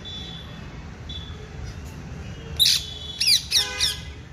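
A bird giving a quick run of about four loud, harsh calls with falling pitch, starting a little past halfway. Earlier, a thin steady high whistle-like tone is heard twice, briefly.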